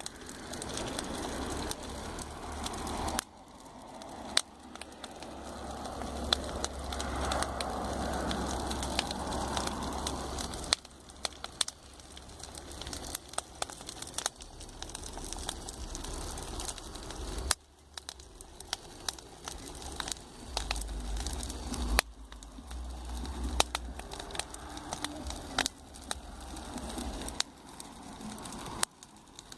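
Campfire crackling, with many sharp pops and snaps scattered through a steady rushing sound that swells and fades in waves.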